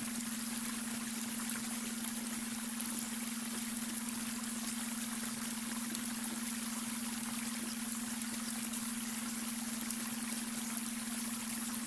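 Babbling brook: water flowing and trickling steadily over stones, with a steady low tone underneath, the beta brainwave tone blended into the soundscape.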